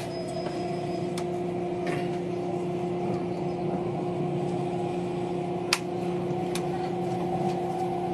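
Steady hum of a passenger train carriage in motion, a few held tones over a low rumble, broken by three short sharp clicks.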